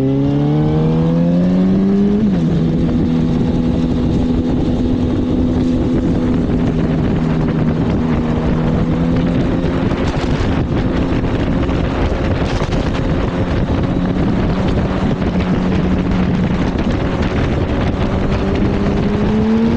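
Sport-bike engine pulling up through a gear, dropping in pitch with an upshift about two seconds in, then holding a steady cruise with wind rushing past the rider. The engine note climbs slightly near the end.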